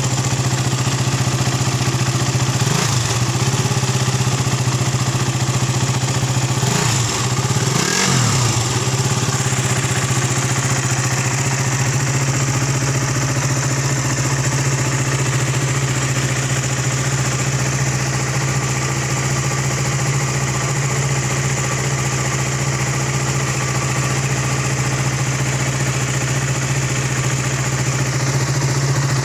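KTM Duke 200's single-cylinder four-stroke engine idling steadily, with short throttle blips that rise and fall in pitch about three seconds in and twice around seven to eight seconds in.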